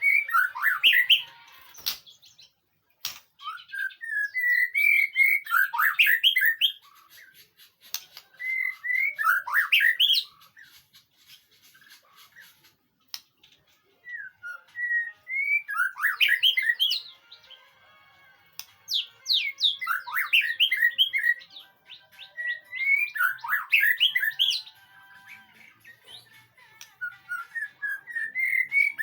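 White-rumped shama singing: repeated phrases, each a couple of seconds long, of clear rising whistles breaking into quick varied notes, with short pauses between them. Two sharp clicks come about two and three seconds in.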